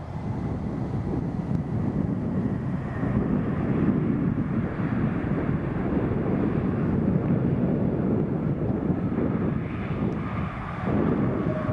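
Airliner engine noise at an airport, a steady low-pitched roar with a faint high whine in the first few seconds, mixed with wind buffeting the microphone.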